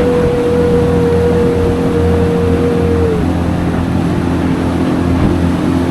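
Jet boat engine running steadily under way, a loud continuous hum with a steady whine that dips slightly and stops about three seconds in.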